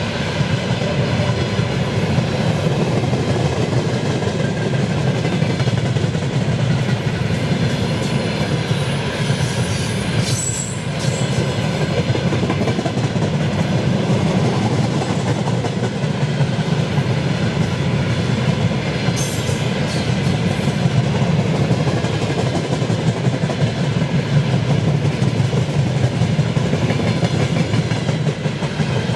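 Freight train wagons rolling past, a loud steady rumble and clatter of steel wheels on the rails.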